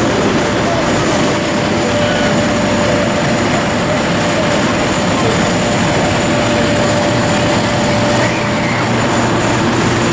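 Aircraft engine noise: a loud, steady rush with a faint steady whine that fades out about eight seconds in.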